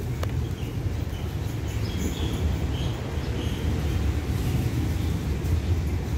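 Steady low rumble of a diesel train drawing slowly toward the platform, with a few faint high chirps in the middle.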